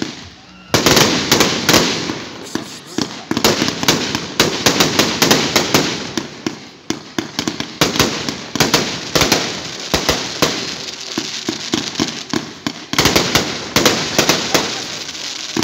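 Aerial fireworks going off in quick succession: a dense run of sharp pops and bangs with crackling from rising candle stars and bursting shells. It starts just under a second in, eases briefly about halfway and again near the end, then picks up.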